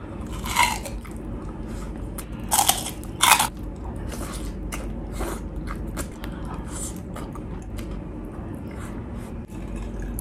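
Close-miked crunching as a person bites into and chews chicharon (deep-fried pork rinds): three loud crisp bites in the first few seconds, then softer crunching and chewing.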